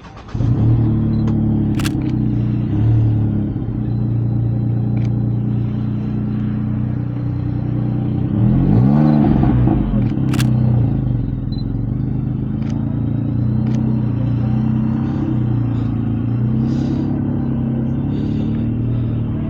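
A classic car's engine starts running loud and close, idling unevenly, then is revved once, rising and falling about nine seconds in. Two sharp clicks cut through it, one about two seconds in and one about ten seconds in.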